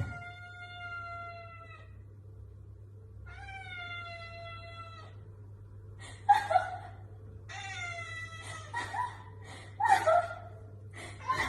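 A cat meowing: two long, drawn-out meows, each sinking slightly in pitch, then a run of shorter meows, a few of them louder and sharper.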